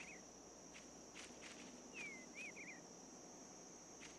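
Faint outdoor nature sound: a steady high insect drone, with a songbird singing one short phrase about two seconds in, a falling whistle then a few quick rising notes. A few faint clicks are scattered through it.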